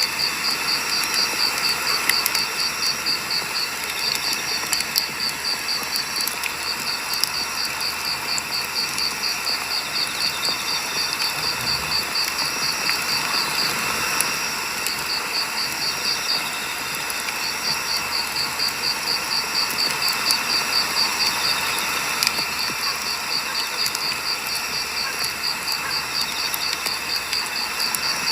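Firewood burning in a campfire, crackling and hissing steadily with scattered sharp pops. An insect chirps throughout in rapid, even high-pitched pulses, several a second, pausing briefly a few times.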